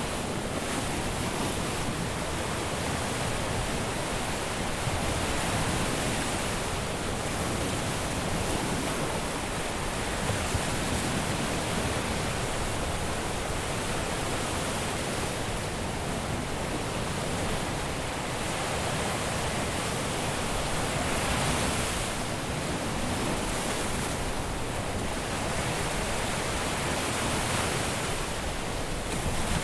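Caribbean surf washing onto a beach: a steady hiss of breaking waves that swells and eases every few seconds.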